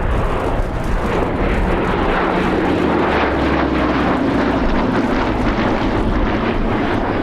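Two Hawker Hurricane Mk I fighters' Rolls-Royce Merlin V12 engines running steadily in a formation flypast, their pitch sinking slightly as they pass.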